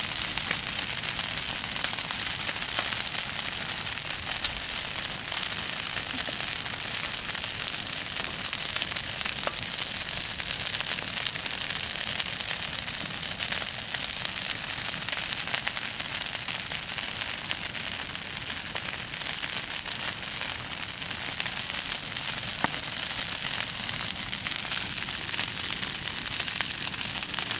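Bonfire burning and crackling steadily, a dense stream of small pops and snaps with a few sharper cracks.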